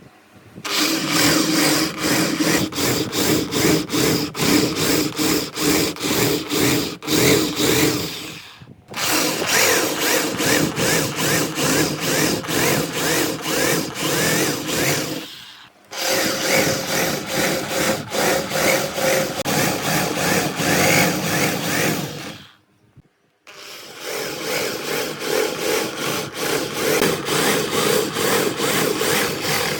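Power tool working wood, running in four long stretches with brief pauses between them, with a regular pulsing of about three or four beats a second.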